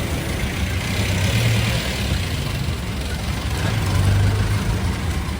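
A motor vehicle's engine idling with a steady low hum, under continuous street noise.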